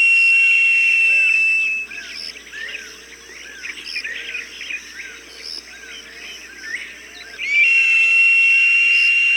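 A falcon's long, high, steady cry holds for about two seconds, then breaks off. Through the gap, smaller birds chirp in quick short calls. The long cry starts again near the end.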